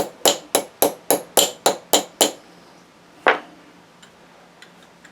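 Hammer tapping on metal in quick, even strokes, about four a second, nine strikes that stop a little over two seconds in, then one last louder strike about a second later.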